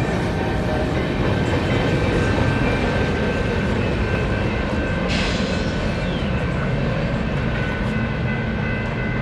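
Freight train rolling past with a steady rumble of wheels on rail, and thin steady high-pitched tones above the rumble. A brief hiss about five seconds in.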